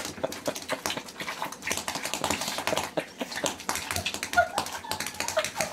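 A dog making a couple of short yips near the end, over rapid, irregular tapping clicks.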